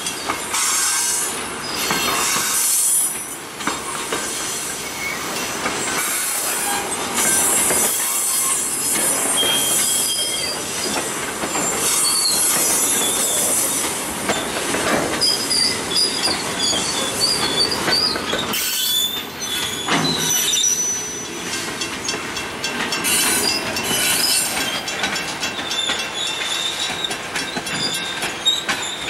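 Loaded scrap gondola cars of a freight train rolling past, steel wheels squealing against the rail with wavering high-pitched tones and occasional knocks from the trucks and rail joints.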